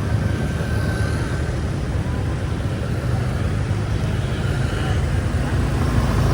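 Steady low rumble of vehicle engine and road noise, holding an even level with no distinct events.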